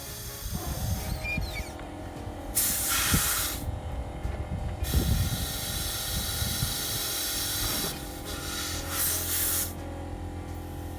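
Hissing spray in two short, loud bursts several seconds apart, with a longer, softer hiss between them.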